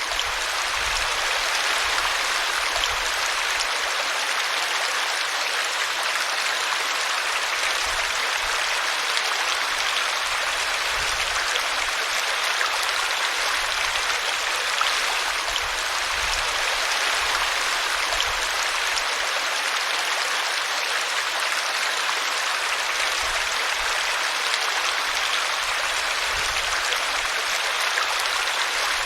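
Small brook flowing and splashing over a tree root: a steady babble of running water.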